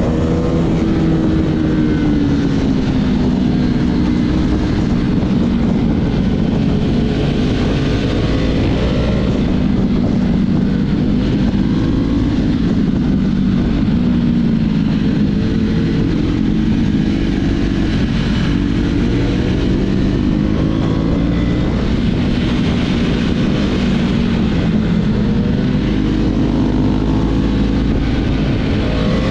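Husqvarna Vitpilen's single-cylinder engine running steadily under way, its exhaust note drifting gently up and down in pitch.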